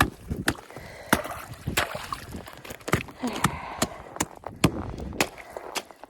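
Repeated sharp blows of a hand tool chopping through frozen pond ice, coming irregularly about every half second.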